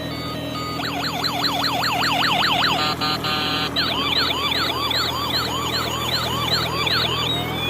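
Electronic police-style siren sounds: a fast yelping sweep repeating about four times a second, a brief steady beeping tone around three seconds in, then a slower up-and-down whoop repeating about three times a second, over a steady low hum.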